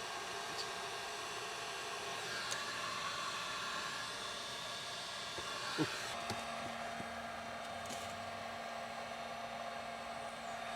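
Electric heat gun blowing steadily, used to heat PVC pipe and fittings; a low steady hum joins about six seconds in.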